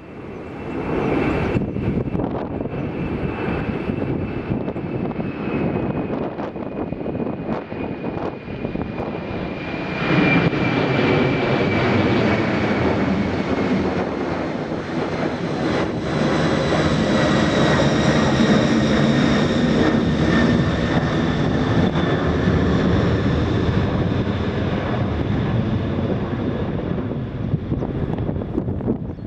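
Jet airliner's engines: a heavy rumble with a high whine that slowly falls in pitch, growing louder about ten seconds in and staying strong.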